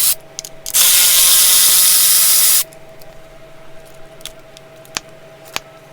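Cordless power tool spinning out a 10mm coil pack bolt on an LS engine. A loud whirring run lasts just under two seconds, with a few light metal clicks after it.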